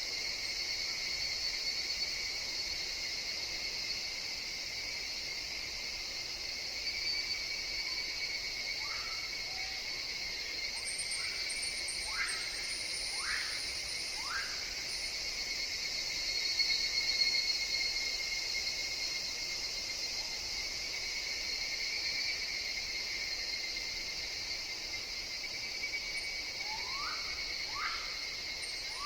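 Forest insect chorus of higurashi evening cicadas, a steady shrill drone. Short rising calls from another animal cut in a few times about a third of the way through and again near the end.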